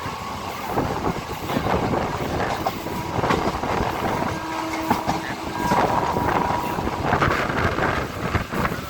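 EMU electric local train running along the track, heard on board: wheels clattering and clicking over the rails under a steady rumble of running noise. A faint whine comes in for a few seconds in the middle.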